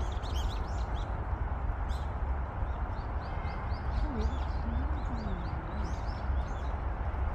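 Small birds chirping in quick, short notes, over a steady rushing outdoor background with a deep rumble, like wind on the microphone. A faint low gliding voice passes about four seconds in.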